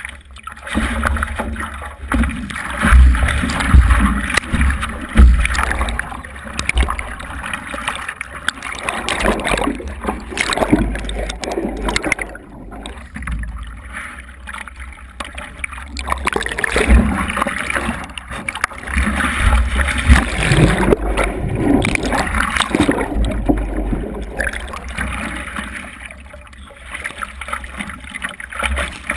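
Wind buffeting the microphone in irregular gusts, a rumbling, rushing noise that rises and falls.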